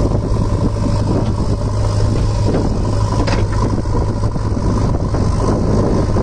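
JCB backhoe loader's diesel engine running steadily under load, with a constant low drone.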